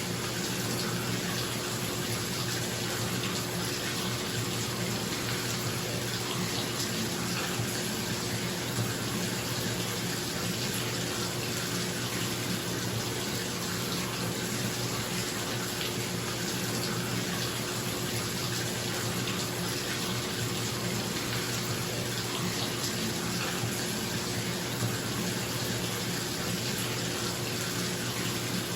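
Bathtub tap running steadily into a filling tub, with a bathroom exhaust fan humming underneath at a steady pitch.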